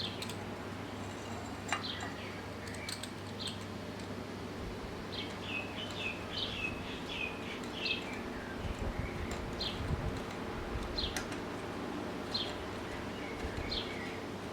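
Birds chirping: many short, high chirps in quick runs, over a steady low hum, with a couple of sharp clicks.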